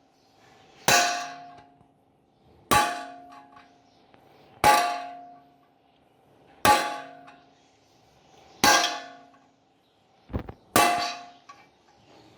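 Hammer blows on a thick steel washer laid over a 6205 ball bearing, driving the bearing into its seat in a washing machine's upper crossmember. Sharp metallic strikes come about every two seconds, each ringing briefly, with a light double tap and one more strike near the end.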